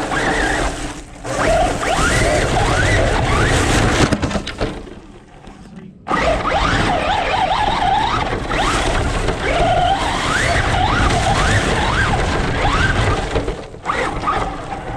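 An RC truck's motor whines up in pitch again and again as it is throttled hard, over a loud rough rushing noise. There is a few-second lull about a third of the way in.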